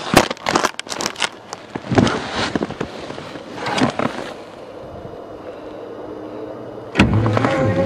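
Knocks and scrapes of snow and controls being handled on a snow-covered bulldozer, then about seven seconds in the dozer's engine suddenly begins turning over on a cold start.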